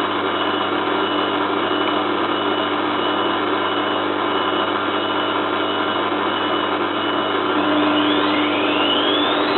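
Zanussi FLA1002W washing machine running with a steady drone as the drum turns, then from about eight seconds in a rising whine as the motor speeds up into a spin burst.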